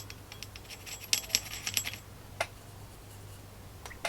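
Paintbrush picking up watercolor from a paint pan: a quick run of light clinks and taps in the first two seconds, then one more tap, over a faint steady hum.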